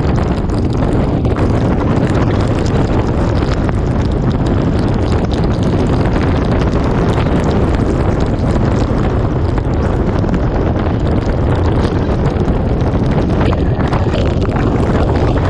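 Typhoon eyewall wind blowing hard and without let-up, buffeting the microphone with a heavy low rumble.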